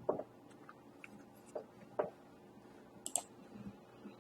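About four faint, widely spaced clicks of computer keyboard keys.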